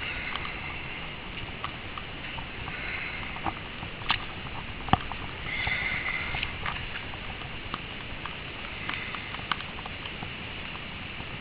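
Heavy wet snow and slush falling, with irregular pattering drips and ticks over a steady background wash.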